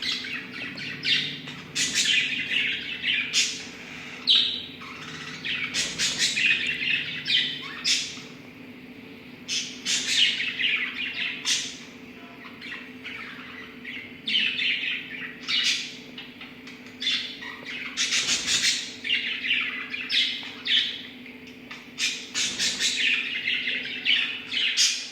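Pet lovebirds chattering in quick bursts of high, shrill chirps and squawks, the bursts coming in clusters with short pauses between them.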